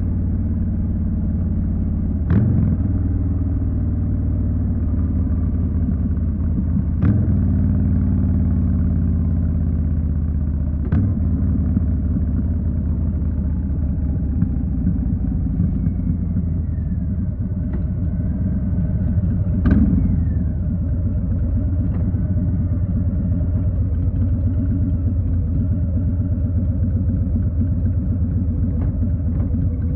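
2020 Harley-Davidson Street Bob's Milwaukee-Eight 107 V-twin running at a steady low rumble, with four sharp clicks about 2, 7, 11 and 20 seconds in.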